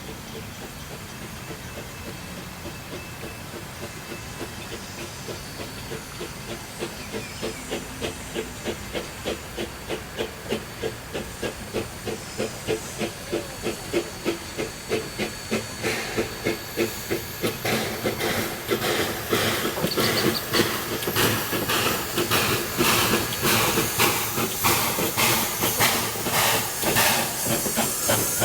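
Steam locomotive working under steam, its exhaust chuffing about twice a second and growing steadily louder as it draws near. In the last ten seconds or so the beats become louder and quicker over a wide hiss of steam.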